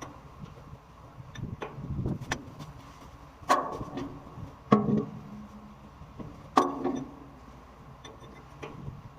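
Metal clanking during work on the hydrant: a few sharp knocks that ring briefly, the loudest about three and a half, four and a half and six and a half seconds in, with softer dull thuds between.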